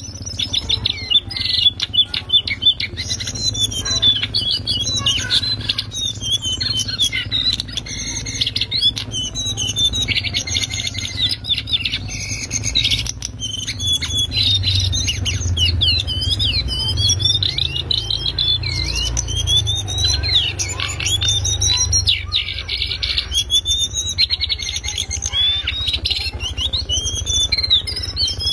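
Lesser shortwing (cingcoang coklat) singing a rapid, unbroken chattering warble of quick high notes that twist up and down in pitch. A steady low rumble sits underneath.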